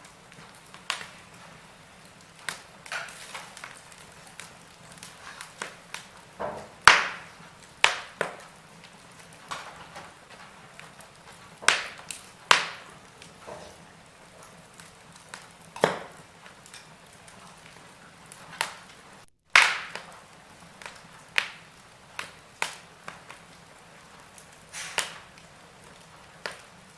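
Wood fire crackling in a fireplace: irregular sharp pops and snaps, a few seconds apart, over a faint steady hiss. The sound drops out for a split second about two-thirds of the way through.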